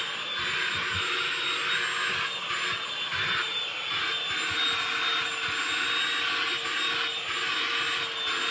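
Milwaukee M18 cordless compact vacuum running at full power: a steady high motor whine over the rush of suction, which swells and dips as the nozzle moves.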